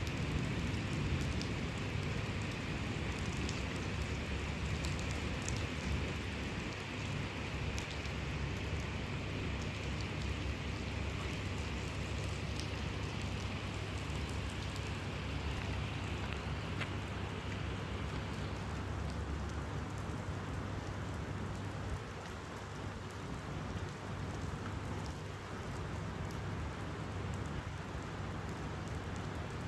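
Heavy rain falling steadily, a continuous hiss with many small drop ticks, over a low rumble that eases about two-thirds of the way through.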